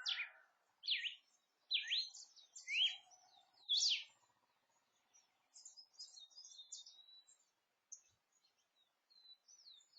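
Wild birds calling: a run of loud, quick sweeping whistled notes in the first four seconds, then fainter, scattered high chirps.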